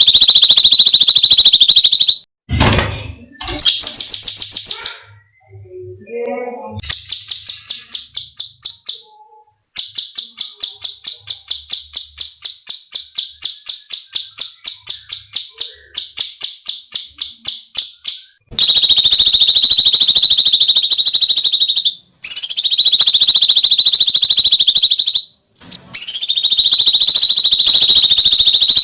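Cucak cungkok singing loudly: long harsh shrieking screams, and in the middle a fast rolling run of sharp repeated notes, several a second, before the screams return.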